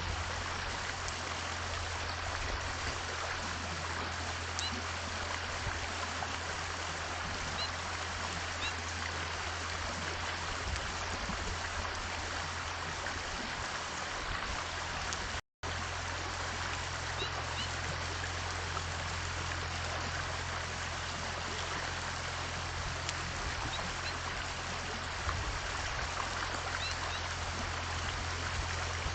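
Steady rushing background noise with a constant low hum beneath it, and a few faint, brief bird chirps scattered through. The sound cuts out completely for a split second about halfway through.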